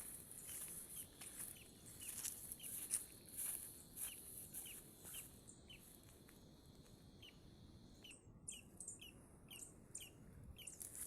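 A small bird calling with short, repeated chirps, about two a second, over a quiet outdoor background. Faint crackling clicks, like steps through dry brush, run through the first half.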